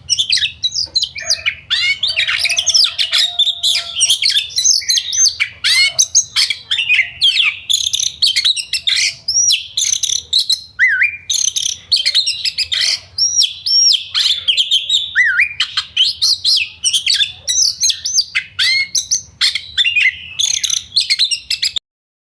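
Yellow-vented bulbul (trucukan) song from a birdsong training track: a dense, unbroken run of quick chirps and short rising and falling whistled notes over a faint low hum. The song cuts off suddenly near the end.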